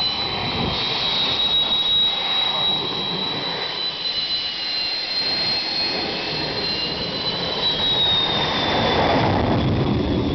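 Motorcycle engine running hard on a dirt track: a loud, steady rushing noise with a high whine that wavers in pitch.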